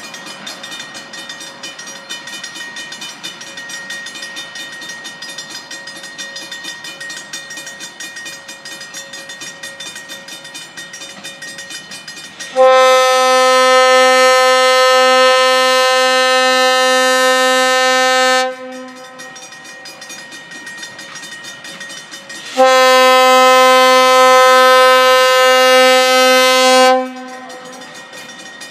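Wilmington & Western No. 98's steam locomotive whistle blows two long blasts, the first about six seconds and the second about four. They come after roughly twelve seconds of quieter, fluttering train running noise.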